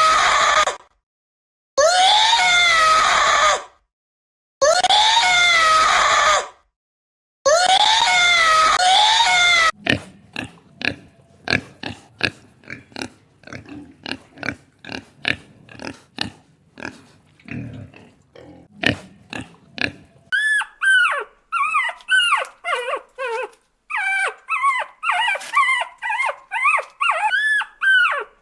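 A run of different animal calls. First come four loud pitched calls, each a couple of seconds long with silent gaps between. Then a fast series of short grunts, then a string of short high cries that rise and fall.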